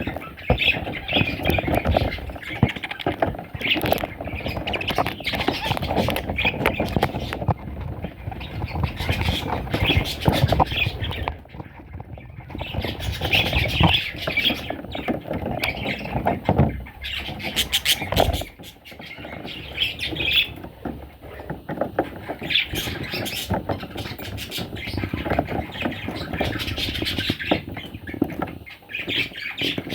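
Pet parrots chattering and squawking in repeated bouts, with scattered sharp clicks.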